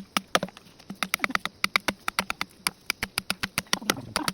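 Rapid, regular sharp knocks, about six a second, as of hard strikes or taps.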